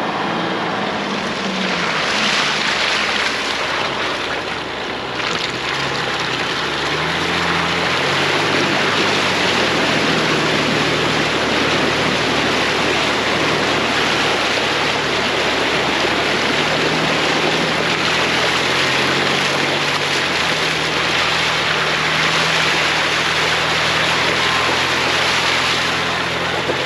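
Jeep Gladiator driving through a deep puddle of slushy muddy water: a steady rushing and churning of water and slush around the truck, with the engine running underneath and its pitch shifting a few times.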